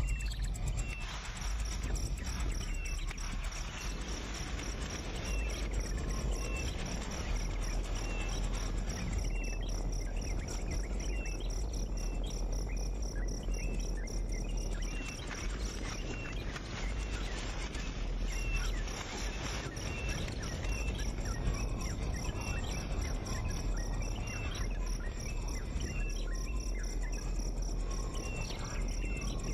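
A steady, high-pitched insect trill with short bird chirps repeating about once a second, over a low steady rumble.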